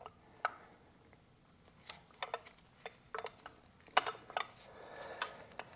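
Hand tools clicking and tapping against metal fuel-line fittings as they are worked loose, in irregular clusters of short clicks.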